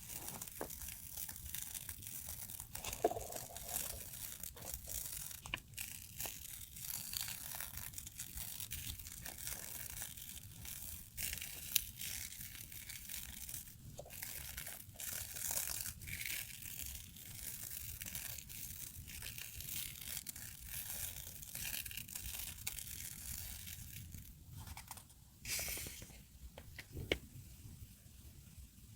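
Hands handling paper stickers, washi tape and their packaging: a continuous crinkling and rustling with scattered small clicks and taps.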